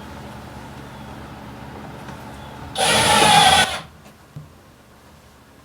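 Power drill running: a low steady hum for almost three seconds, then a much louder whirring burst of about a second.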